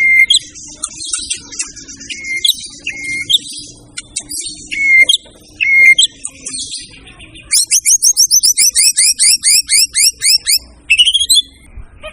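White-rumped shama (murai batu) singing: loud, varied whistled notes, then a fast run of rising notes, about five a second for some three seconds, and a few more notes near the end.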